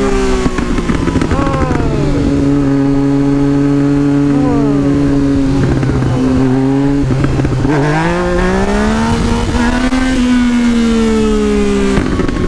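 Yamaha MT-09's three-cylinder engine running, its revs sinking at first, holding steady for several seconds, then climbing about eight seconds in and falling away again near the end.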